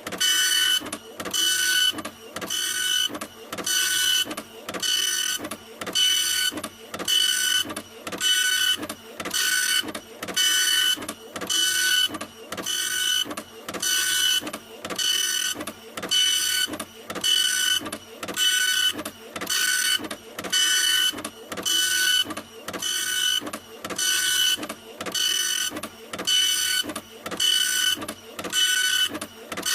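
Printer running continuously, its print head passing back and forth in an even rhythm of about one pass a second, each pass carrying a high mechanical whine.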